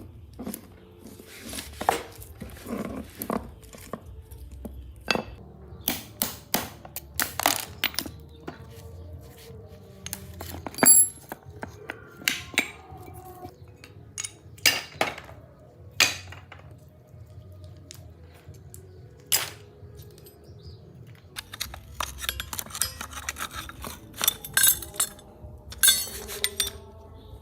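Metal parts of an industrial threading machine clinking and knocking as they are handled and set down, in irregular sharp clinks, with a quick run of them near the end.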